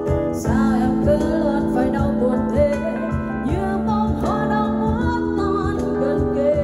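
A song playing on a wireless speaker under test: a singing voice with vibrato over held notes and guitar.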